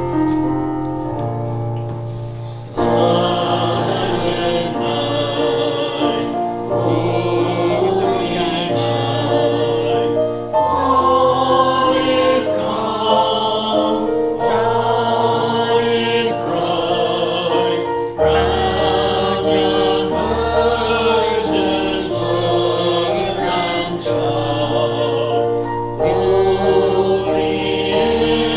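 Church choir singing with instrumental accompaniment under held bass notes, the voices coming in fuller about three seconds in.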